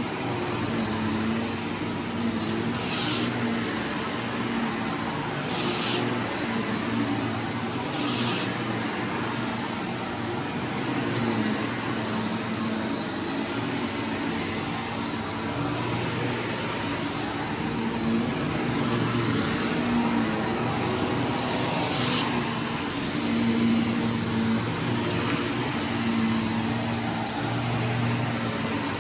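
Vacuum cleaner running steadily with a low motor hum that wavers slightly in pitch. Four brief hissing bursts come through it, three in the first nine seconds and one past the middle, as debris from a test mess is sucked up.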